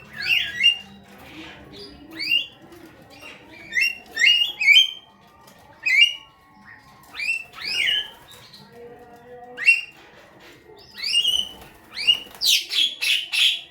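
Javan myna calling: short, sweeping calls, one every second or two, then a faster, louder run of notes near the end.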